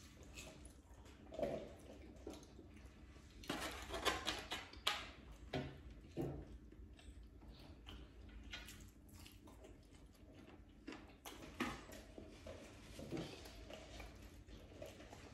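Quiet mealtime noise at a table: scattered light knocks, clatter and rustling of food and takeout packaging, busiest for a few seconds near the start.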